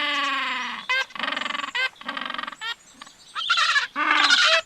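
Horse whinnying: one long call falling slightly in pitch, followed by a series of shorter neighs.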